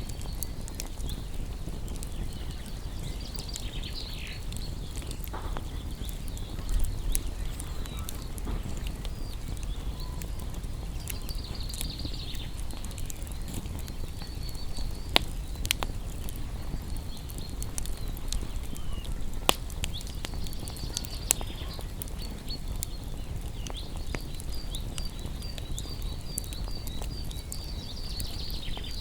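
Wood fire crackling over a low, steady rumble, with scattered small crackles and a few sharper pops about halfway through. Faint high chirping calls come and go in the background.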